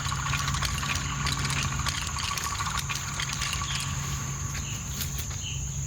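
Insects droning in a steady, high, even tone, with scattered rustles and clicks from someone walking through brush.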